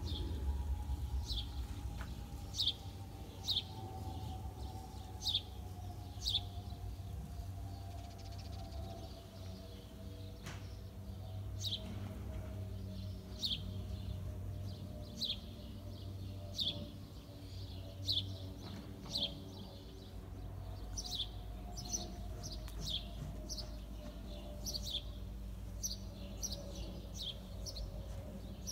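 A small bird repeats short, high, downward-sweeping chirps, mostly about one a second with a few pauses. Under it runs the distant rumble of an Airbus airliner passing high overhead, with a faint whine that slowly falls in pitch.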